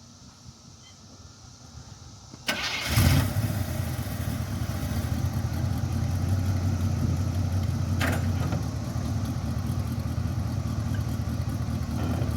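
Squarebody pickup truck's engine starting about two and a half seconds in, then idling steadily.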